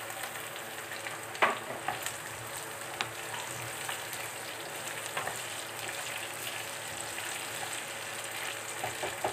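Chopped green beans and potatoes sizzling in hot oil in a kadai, stirred with a wooden spatula. The spatula knocks against the pan a few times; the loudest knock comes about a second and a half in.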